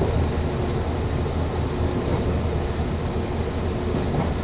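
Steady rumble and rushing noise of a moving train, heard from on board, with a faint steady hum.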